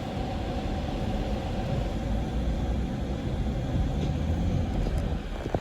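Low, steady rumble of passing motor traffic that grows slightly louder, with a couple of sharp clicks near the end.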